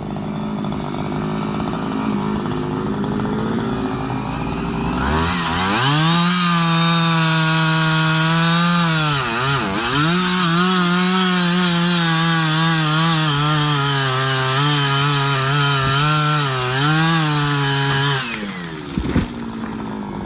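Two-stroke chainsaw idling, then opened to full throttle about five seconds in and held there, cutting wood, with a brief dip in engine speed partway through. Near the end it drops back to idle.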